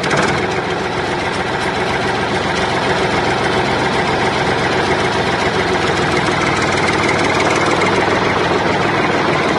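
Tractor engine running steadily, loud and even.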